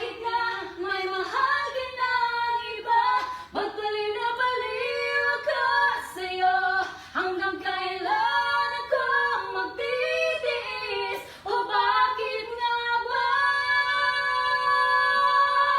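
Two singers singing a Filipino song as a duet, harmonizing throughout, with a reverberant sound from singing under a staircase. Near the end they hold one long note together.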